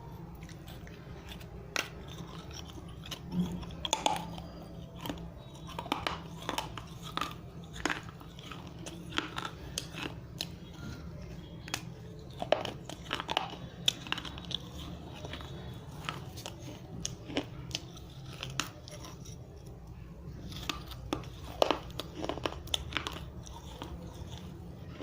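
Dry fired red clay diya being bitten and chewed, with sharp irregular crunches and crackles coming in clusters over a low steady hum.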